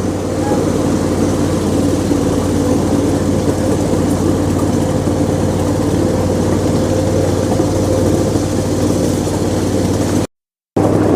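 Ride-on miniature train running along its 6-inch gauge track, a steady engine drone with wheel and track rumble underneath. The sound cuts out for a split second near the end.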